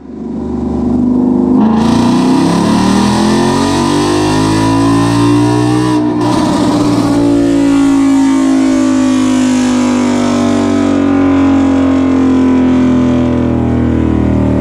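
2018 Ford Mustang 5.0 Coyote V8 running hard on a chassis dyno, revving up in the first couple of seconds, with a brief change about six seconds in, then holding near a steady engine speed.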